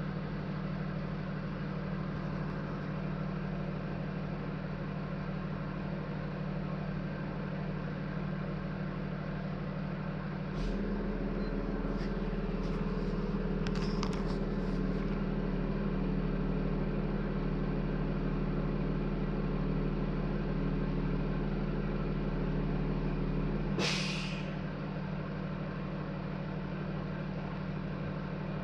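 A vehicle engine idling with a steady hum, growing louder about ten seconds in, with a few sharp clicks soon after. About 24 seconds in, a short sharp hiss of released air like an air brake, after which the hum drops back down.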